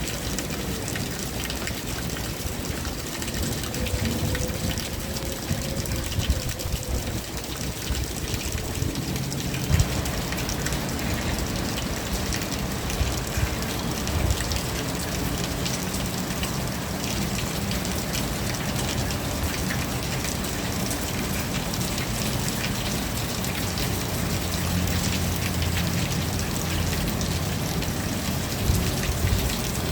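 Rain falling steadily, a dense patter of drops on surfaces, which thickens about ten seconds in. A faint drawn-out tone drifts under it in the first several seconds.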